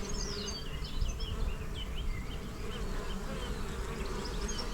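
Honey bees buzzing in a steady drone as foragers fly in and out at the hive entrance, with scattered short high chirps over it.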